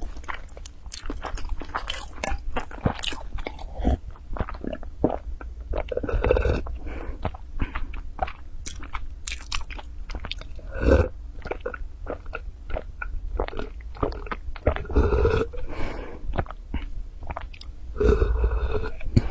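Close-miked eating sounds: chewing with many small clicks, and in the second half louder swallowing gulps as a drink is taken from a bottle.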